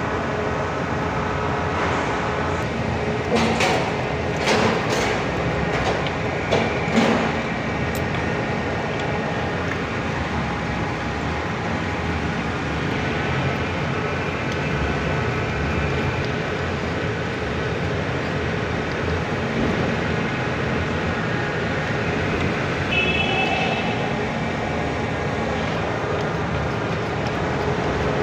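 Four-cylinder forklift engine running steadily, with a handful of sharp knocks a few seconds in.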